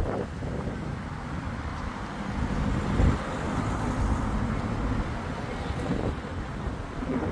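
Thunderstorm noise: a steady low rumble with wind buffeting the microphone, swelling briefly about three seconds in.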